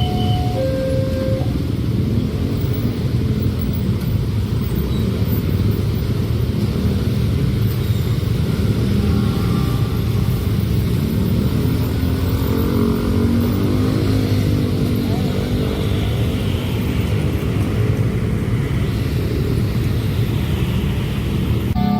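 A train running past a level crossing: a loud, continuous rumble that fills the whole stretch. The crossing's alternating two-tone warning chime sounds for about the first second and a half, then is drowned out by the passing train.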